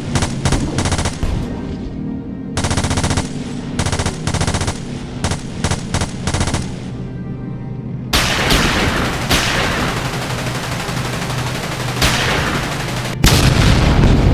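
Bursts of rapid automatic gunfire for about the first seven seconds, then a string of explosions with rushing blast noise from about eight seconds in and a heavier blast near the end. A low, steady music drone runs underneath.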